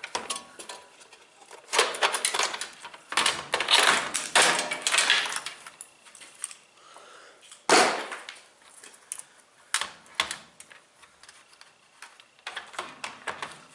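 Hard plastic and metal washer parts clattering and scraping as they are handled and pried loose during disassembly, with a sharp knock about eight seconds in.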